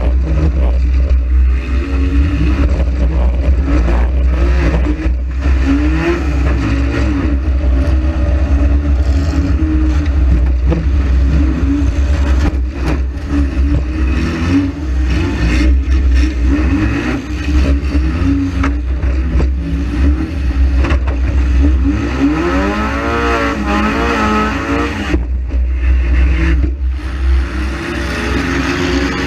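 Saturn car engine revving up and down in a front-wheel-drive demolition derby, over a heavy low rumble, with scattered knocks and clatter from the car; the revs climb and drop sharply about three quarters of the way through.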